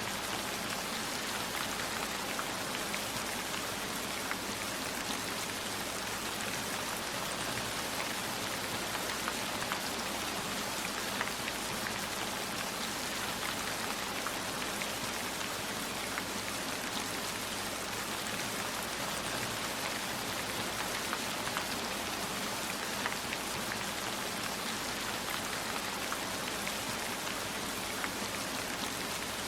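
Steady rainfall, with scattered single drops ticking sharply.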